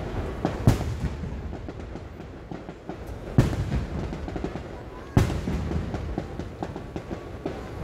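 Aerial fireworks shells bursting: three loud booms a couple of seconds apart, each trailing off in an echo, over continual small pops and crackling from the glittering effects.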